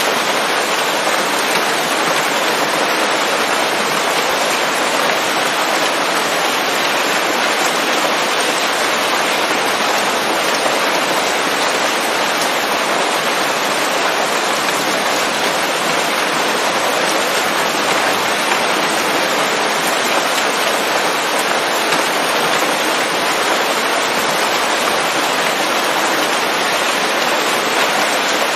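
Steady heavy rain falling on leaves: a dense, even patter that does not change.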